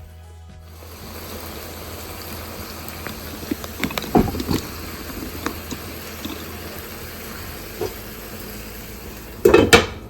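Water running steadily in a kitchen, with scattered clinks and knocks of cookware and a loud clatter near the end, over background music.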